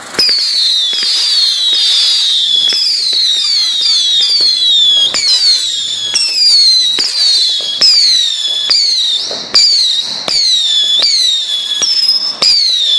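Whistling fireworks firing shot after shot in quick succession. Each shot starts with a sharp pop and then a high whistle that falls in pitch, with one to two whistles a second overlapping one another.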